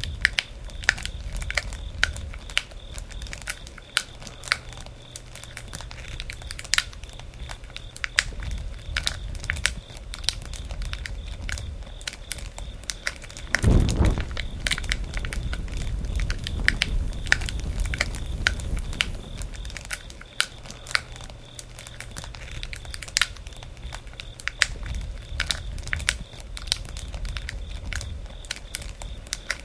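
Wood bonfire crackling, with frequent sharp pops over a low rumble of burning. About fourteen seconds in there is a brief, louder rush of low sound.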